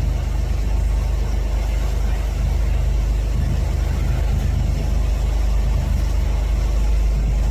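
Motorboat engine running steadily under way, a deep, even drone.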